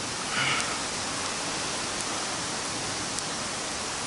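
Big bonfire burning with a steady hiss and a few faint pops. A brief faint voice comes in under a second in.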